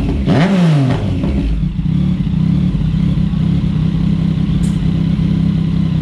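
Yamaha MT-09 inline-three engine breathing through an aftermarket full exhaust system, blipped once near the start, then settling to a steady idle.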